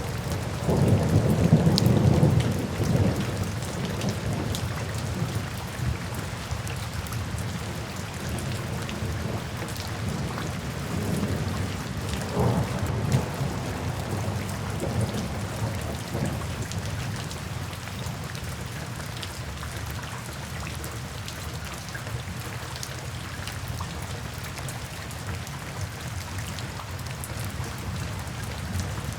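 Light rain falling steadily into puddles and standing water, with fine drop patter. A low rumble of thunder swells in the first few seconds and a smaller one comes near the middle.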